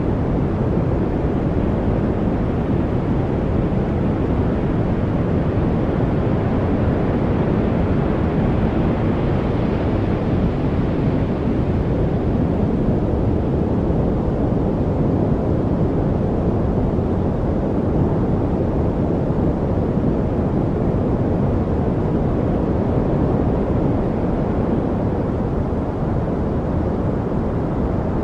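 Steady, deep-toned rushing noise from a study white-noise track, with most of its weight in the low range and little hiss on top, so it sounds more like brown noise than bright white noise. It holds even throughout, growing slightly brighter about ten seconds in.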